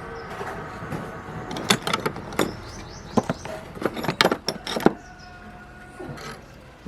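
A quick series of sharp metallic clinks and knocks, as of tools and metal parts being handled, bunched between about a second and a half and five seconds in.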